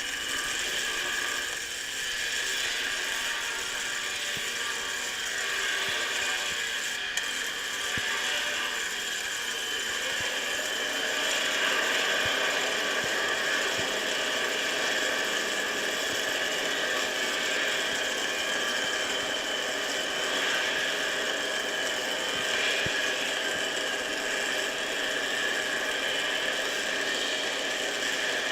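MIG welding arc laying a downhill root pass on steel pipe with 0.035 in steel wire from a Lincoln PowerWave S350. It runs continuously with an even crackle, getting a little louder about ten seconds in.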